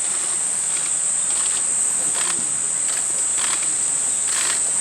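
Steady, high-pitched insect drone, with a few faint short clicks or rustles now and then.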